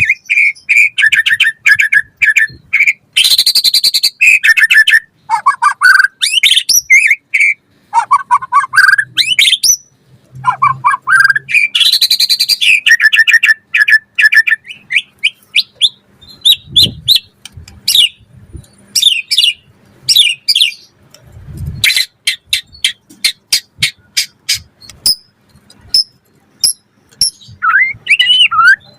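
White-rumped shama (murai batu) singing a loud, varied song of rising whistled phrases and fast trills. About two-thirds of the way through comes a run of sharp, rapid clicking notes.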